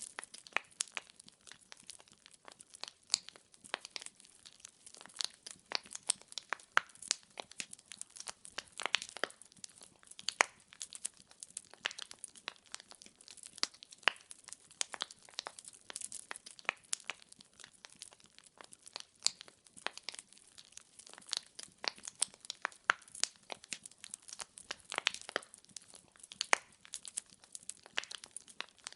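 Wood fire crackling: burning logs give a dense, irregular run of sharp pops and snaps over a soft hiss.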